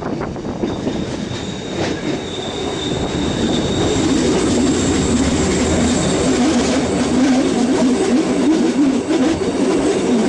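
Bernina Express train running on the rails, heard from an open carriage window, with a thin high wheel squeal for a few seconds in the first half. The running noise grows louder about four seconds in.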